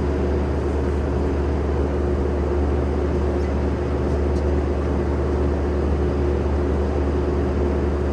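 Skid steer engine running steadily at a constant speed, a low even drone with no change in pitch.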